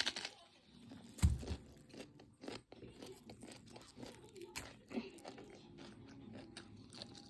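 Cabbage being bitten and chewed: crisp crunches, with one sharp, loud bite about a second in, then a run of crunchy chewing.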